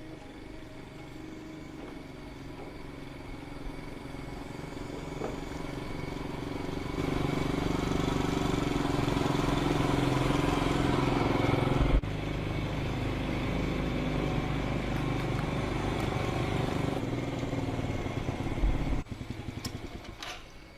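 A motor vehicle engine running steadily, getting louder over the first several seconds, with a few sharp clicks near the end.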